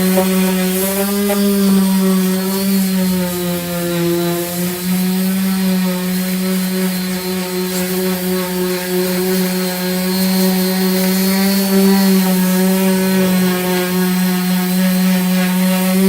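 Electric disc sander fitted with a 240-grit disc, running steadily and rasping over body filler, its motor hum dipping slightly in pitch now and then as it is pressed to the surface.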